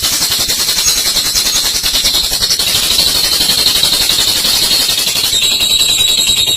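Olive lovebird giving a long, unbroken 'ngekek' chatter: a very rapid, high-pitched rattling trill with no pauses.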